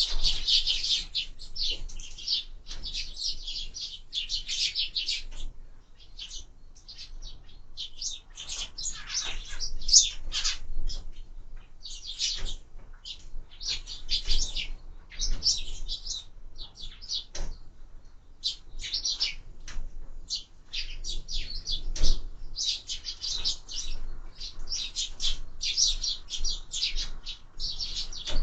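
Sparrows chirping constantly at a feeder, many short overlapping chirps from several birds. A couple of short knocks stand out, one near the middle and a louder one about three quarters of the way through.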